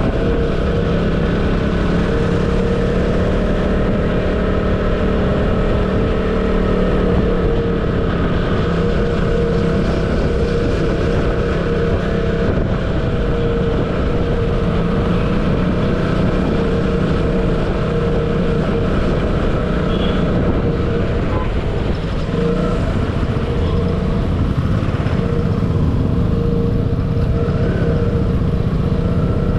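Motorcycle engine running at a steady speed while riding, with a constant low rumble underneath.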